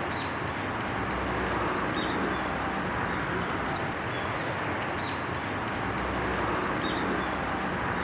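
Steady outdoor background hiss with a few faint, short, high-pitched bird calls, two of them close together around two seconds in and again around seven seconds in.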